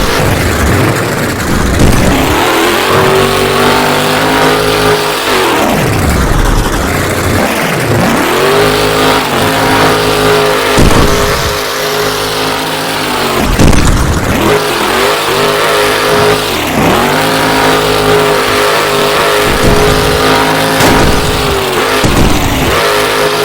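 Monster truck engine at full throttle, repeatedly revving up to a high, held pitch for a few seconds and then dropping off, about six times over.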